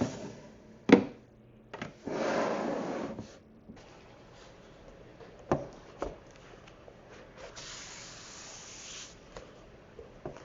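Tiny plastic miniature food pieces and dishes handled and set down: a sharp click about a second in, then a rustling rub for about a second, two lighter clicks in the middle, and a soft hiss of something sliding near the end.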